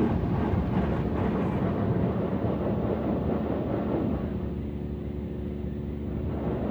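Tammermatic T700 rollover car wash running over the car, heard from inside the car: a steady rush of washing noise and machinery, with a motor hum coming in about four seconds in.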